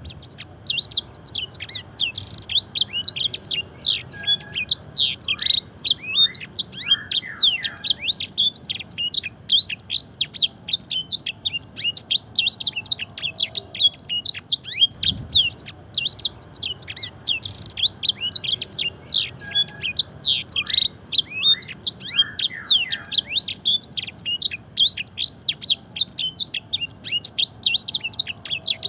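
Domestic canary singing a long, unbroken song of fast, high, downward-sweeping notes in rapid trills, its song filled with imitated blackthroat phrases.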